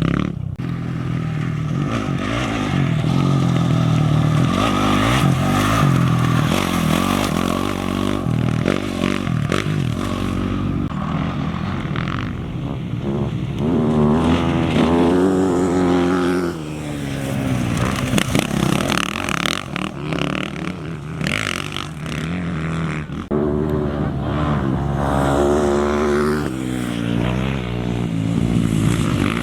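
Off-road racing motorcycle and quad engines running and revving as they pass, the engine note rising and falling twice, about halfway through and again near the end.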